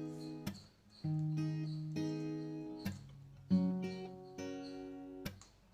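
Background music: an acoustic guitar playing plucked chords, each chord ringing on for a second or two before the next.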